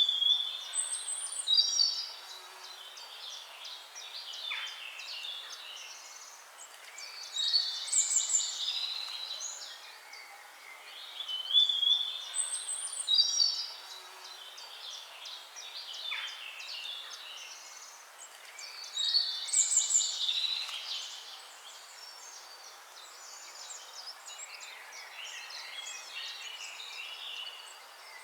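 Songbirds singing: loud, quick phrases of high chirps and trills come every five to seven seconds, with softer twittering between them.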